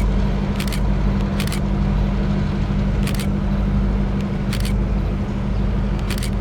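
EMD GP38 diesel locomotive's engine running steadily under load as it shoves a cut of cars slowly, with short sharp clicks from the rolling train every second or so.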